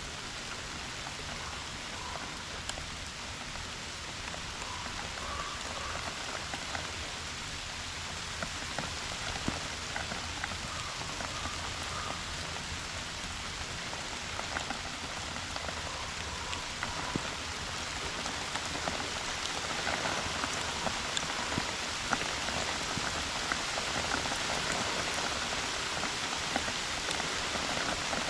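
Steady rain falling, an even hiss with many individual drops ticking close by; it grows slightly heavier toward the end.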